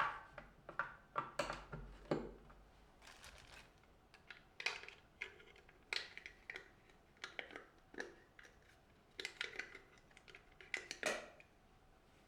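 Small household objects being handled: an irregular string of light clicks, taps and rustles as things are picked up, moved and set down.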